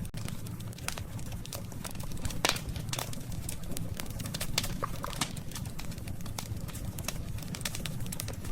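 Wood campfire crackling: irregular sharp pops and snaps, one louder pop about two and a half seconds in, over a steady low rumble of the burning fire.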